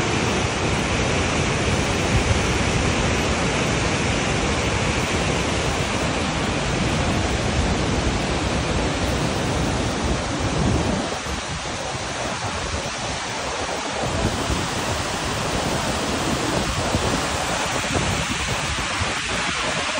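Waterfall rushing: a steady, dense noise of falling water. A heavier low rumble, likely wind on the microphone, eases about halfway through.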